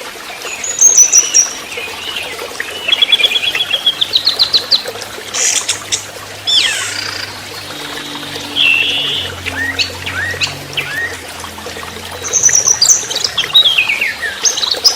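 Young spotted orange-headed thrush singing a varied song of short phrases: fast high trills, a rising trill, and downslurred whistles, with brief pauses between phrases.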